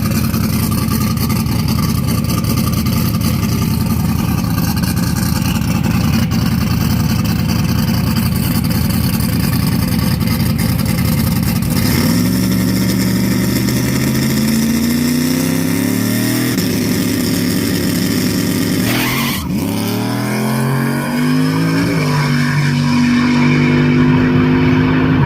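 Drag-racing car engine running loud and steady, then from about halfway accelerating hard, its pitch climbing and dropping back at each gear change several times.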